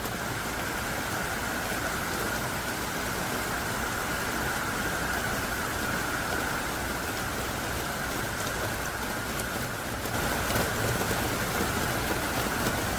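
Heavy downpour of rain falling steadily, a dense even hiss of drops hitting surfaces. It grows a little louder about ten seconds in.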